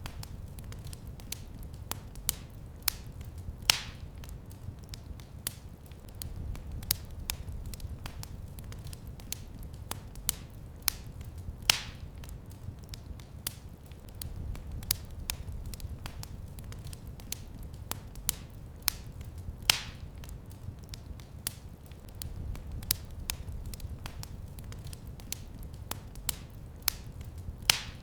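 Wood fire crackling in a fireplace: a steady low rumble with frequent small irregular crackles, and a louder pop about every eight seconds.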